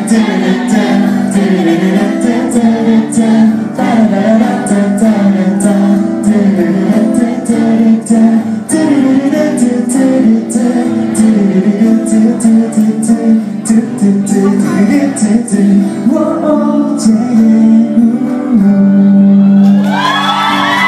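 Live guitar music with a strummed rhythm, playing a wordless passage of a song.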